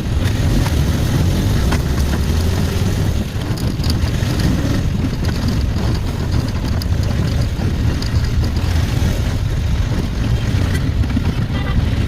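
Steady rumble of a road vehicle under way: engine and road noise heard from on board, with no sharp events.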